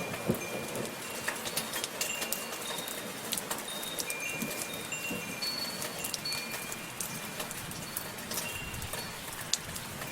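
Steady soft rainfall, a hiss full of small drop ticks, with metal wind chimes ringing single high notes here and there throughout.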